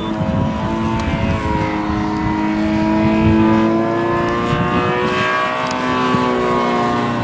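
YS TZ240 four-stroke boxer-twin model airplane engine running on a radio-control aerobatic plane, its pitch rising to a peak about three seconds in, falling away, then climbing again as throttle and airspeed change.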